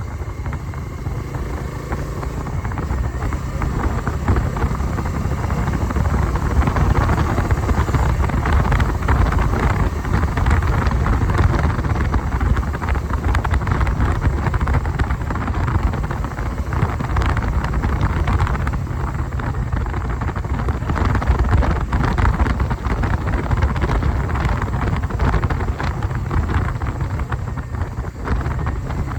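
Motorcycle running at road speed, its engine and road noise mixed with wind buffeting the microphone.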